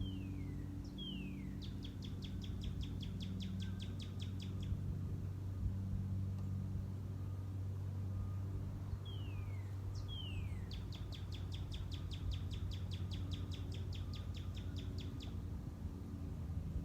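A songbird sings twice, about eight seconds apart: each song is two quick down-slurred whistles followed by a long, even, rapid trill. A steady low hum runs underneath.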